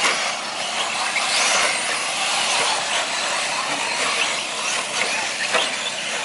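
Radio-control 4WD short course trucks racing on the track: a steady hiss of motors and tyres.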